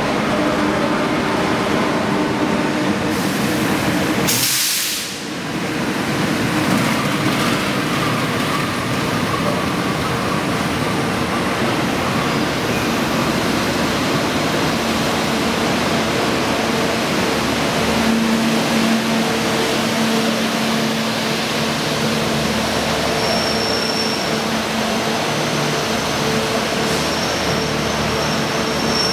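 Passenger train rolling slowly past a station platform: a steady rumble of wheels and running gear with a low steady hum. A thin, high wheel squeal comes and goes in the last few seconds.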